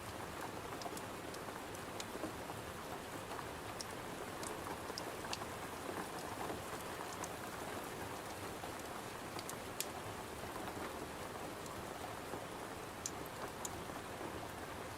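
Steady rain falling, with scattered sharp crackles and snaps from a wood fire on top.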